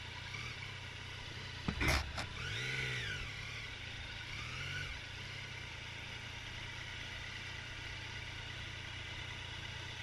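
Vehicle engine idling steadily, with one sharp knock just under two seconds in.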